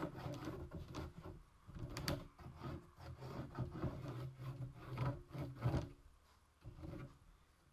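A marking tool scratching and rubbing on plywood as it traces around a rivet ring, with small knocks of the ring shifting against the wood; it goes quiet about six seconds in.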